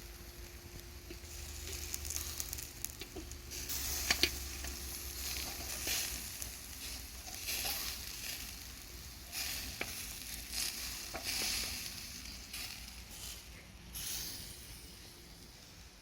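Meat sizzling as it grills over a fire, a fluctuating hiss with scattered crackles.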